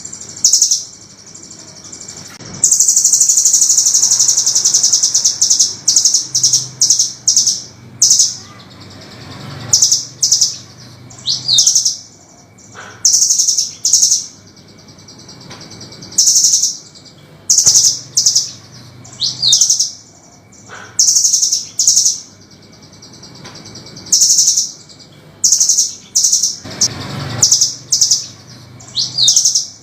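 Velvet-fronted nuthatch calling: short, sharp, high-pitched chattering trills repeated every second or so, with one long rattling trill about three seconds in and a few quick rising notes.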